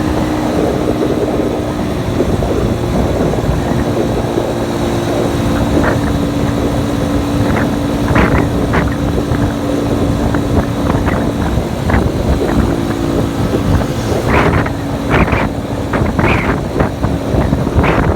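Motorcycle engine running steadily while riding, with heavy wind noise on the microphone; short gusty bursts come more often in the second half.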